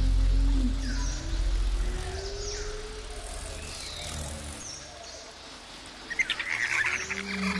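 Birds chirping, with repeated short falling calls over an outdoor ambience. A low rumble fades out over the first couple of seconds, and a burst of rapid clicks comes about six seconds in.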